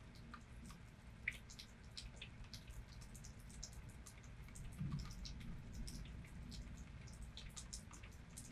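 Rain dripping: scattered, irregular drops ticking close by over a low, steady rumble that swells briefly about five seconds in.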